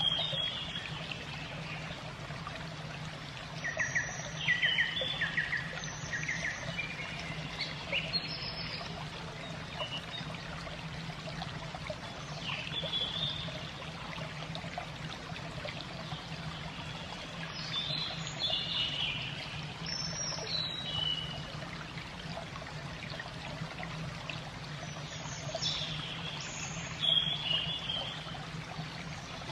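Small birds chirping in scattered bursts over a steady background of trickling water and a low, even hum.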